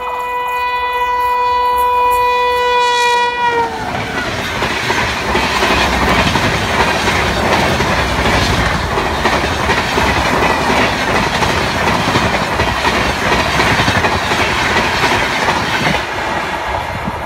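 Electric locomotive air horn held in one long blast for nearly four seconds, its pitch dropping as the engine passes, then the loud rush and wheel clatter of an Indian Railways Duronto Express rake's coaches going by at speed.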